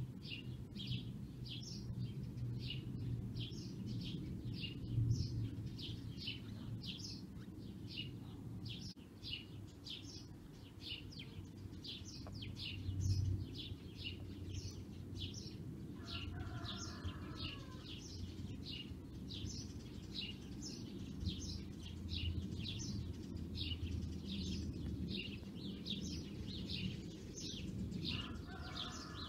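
A bird chirping over and over, about two short chirps a second, over a steady low rumble; a second, lower call comes in about halfway and again near the end.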